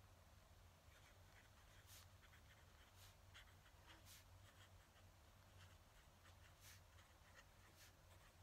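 Fountain pen nib scratching faintly on paper in short, irregular strokes, over a steady low hum.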